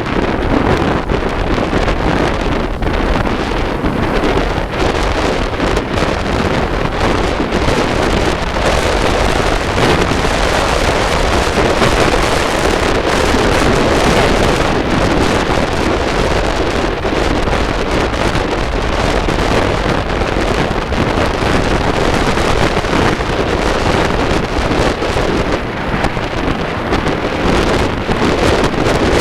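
Loud, steady wind rush buffeting the microphone, with a vehicle's running noise underneath.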